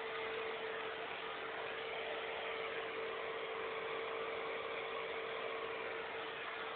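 Vacuum cleaner running steadily: an even whirring hiss with a constant hum under it.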